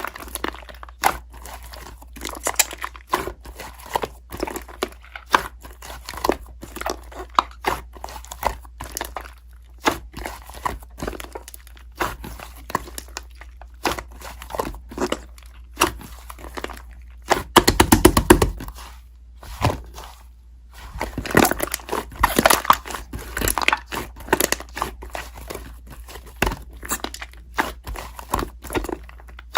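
Close handling sounds: an irregular run of sharp clicks and taps mixed with crinkling, with two louder, busier stretches past the middle.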